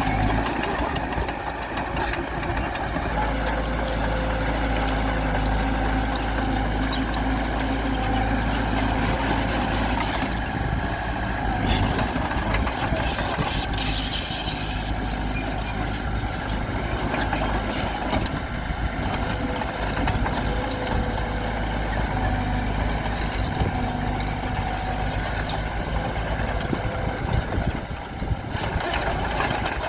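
Bulldozer's diesel engine running steadily under load, with scattered clanks and knocks over it.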